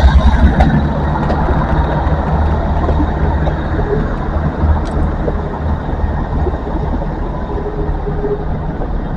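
Train's diesel engine running with a steady low rumble at a station platform, loudest at first and easing off slowly after about a second.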